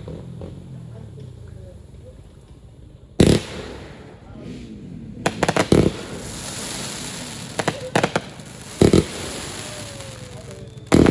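Fireworks display: four loud bangs of shells bursting, about three, six, nine and eleven seconds in. Between them come quick rattles of cracks, and from about five seconds on there is a continuous crackle.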